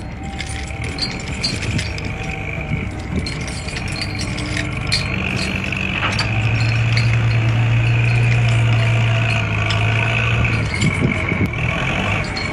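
Steady engine-like hum that grows louder about halfway through, with light clicks and rattles over it.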